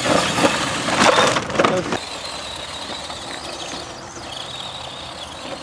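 RC scale crawler truck crunching and scraping over rock for about two seconds, loudest about a second in. It then settles to a steady hiss with a faint high whine.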